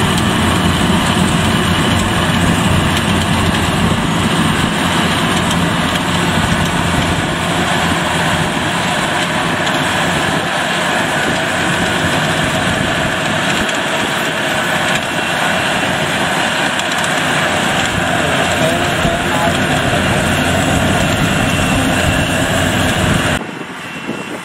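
Yanmar rice combine harvester running steadily at working speed in a muddy paddy, its engine and machinery making a dense, loud drone that cuts off suddenly near the end.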